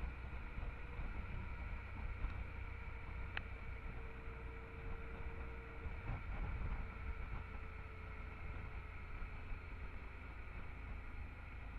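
Honda Transalp XL650's V-twin engine running on the move, heard as a steady, muffled low rumble, with a single short click about three seconds in.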